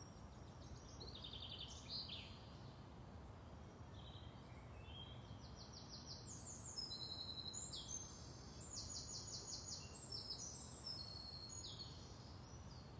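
Faint birdsong: small birds chirping and singing quick trills of rapidly repeated high notes, busiest in the middle of the stretch, over a low steady background hum.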